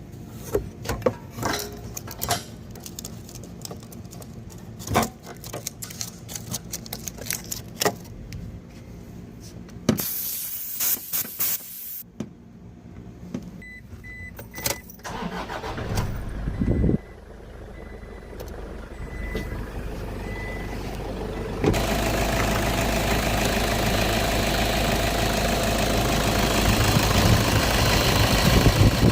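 Car engine starting and running, after several seconds of scattered clicks and knocks of work on the car. About two-thirds of the way through, the running noise steps up and then holds loud and steady.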